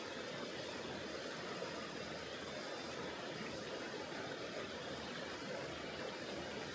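Tonghou River, a mountain river, flowing with a steady, unchanging rush of water.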